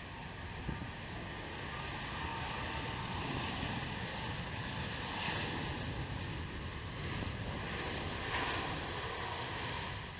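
Airbus A320neo jet engines as a steady broad rush as the aircraft rolls out after landing, swelling twice, mixed with wind buffeting the microphone.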